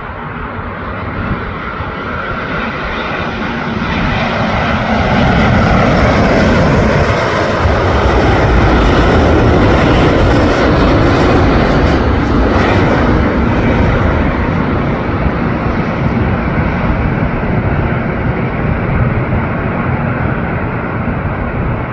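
Jet engines of a Boeing 787-9 Dreamliner (GE GEnx turbofans) passing by as it comes in to land. The engine noise swells over the first few seconds, is loudest about a third of the way in, then slowly fades.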